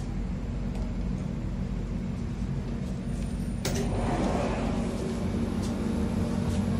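Steady low rumble of a moving executive-class passenger train coach. About three and a half seconds in, a sharp clack and a rush of about a second as the coach's sliding door opens, after which the rumble is slightly louder.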